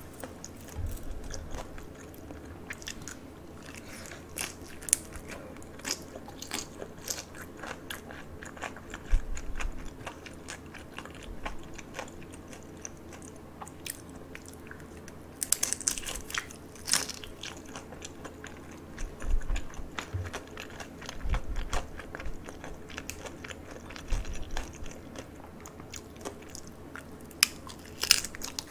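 Close-miked crunching and chewing of crisp pan-fried dumplings, with many small crackling bites. There are louder crunches about halfway through and near the end, and a few dull low thumps.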